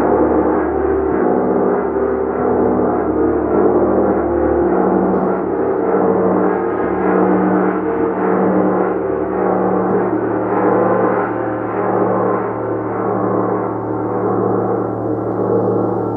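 A gong being played continuously: a loud, sustained wash of many overlapping ringing tones with gentle swells. From about five seconds in, a low tone pulses slowly underneath.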